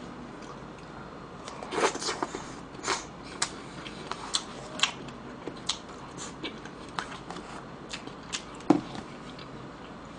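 Close-up eating sounds of a person chewing mouthfuls of rice and stir-fried pork, with irregular wet smacks and small clicks of chopsticks against a plastic tub. A sharper smack comes near the end.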